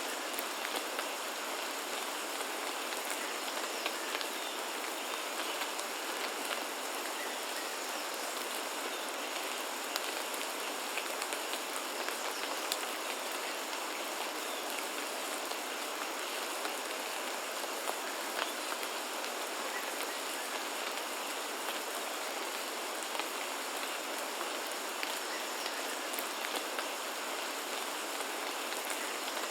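Steady rain falling, with individual drops clicking sharply on surfaces over an even hiss, and a faint steady high tone beneath it.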